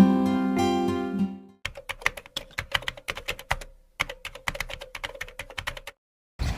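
A short music jingle ends about a second and a half in, followed by two runs of rapid keyboard typing clicks, each about two seconds long, with a brief pause between them.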